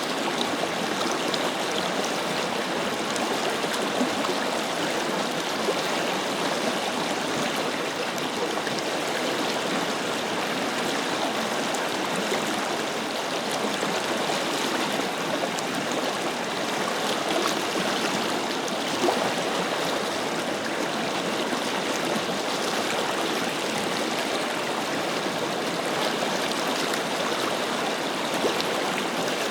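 A forest river flowing steadily, a continuous rushing and babbling of water with small irregular splashes.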